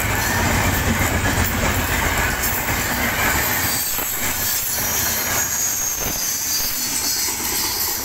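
Passenger train coaches rolling past at close range: a steady rumble of steel wheels on rail. Wheel flanges squeal high on the curved track from about three seconds in, and a few clacks of wheels over rail joints come midway. The sound eases a little near the end as the last coach goes by.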